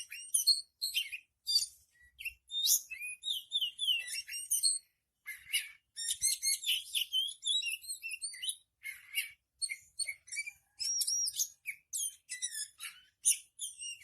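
Oriental magpie-robin (kacer) singing continuously: a rapid stream of varied high whistled notes, slurs and chattering trills, with only brief pauses between phrases.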